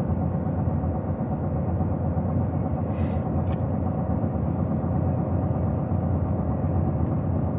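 Steady low rumble of a truck being driven, engine and tyre noise heard from inside the cab, with a brief faint hiss and tick about three seconds in.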